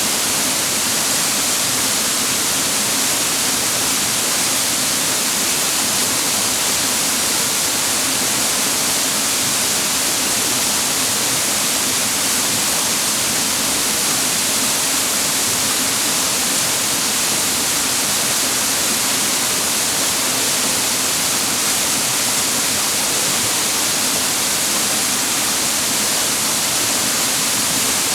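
Water of a small mountain waterfall and its rocky stream rushing: a steady, even hiss with no break or change.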